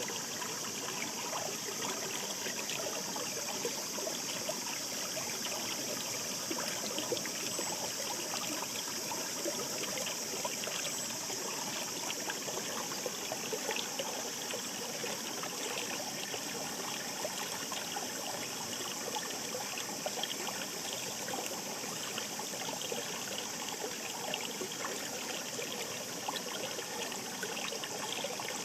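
Shallow mountain stream babbling steadily over stones, a continuous rush of water flecked with many small splashes and trickles.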